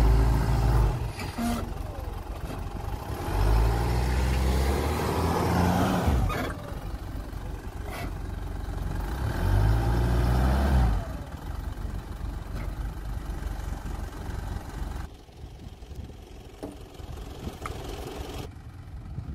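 Mitsubishi Pajero engine revving hard in three long surges, each rising in pitch, with lower running between them. The SUV is straining to pull free while stuck against a wooden post on a grassy slope.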